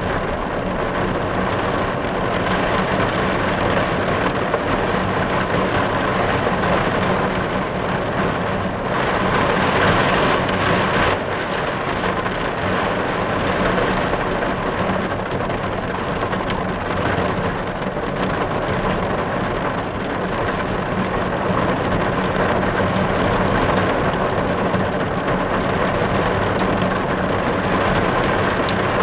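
Rain falling steadily on a car, heard from inside the cabin; it swells a little about ten seconds in.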